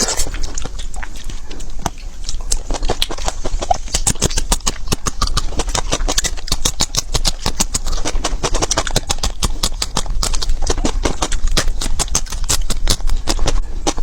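Birds pecking at food: rapid, irregular beak taps and clicks, several a second, with a steady low hum underneath.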